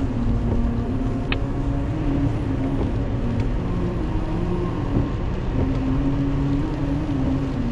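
Engine and tyre noise of a car driving at about 30 mph on a rain-wet road, heard from inside the cabin: a steady low rumble and hiss with a faint wavering hum. A single short click comes about a second in.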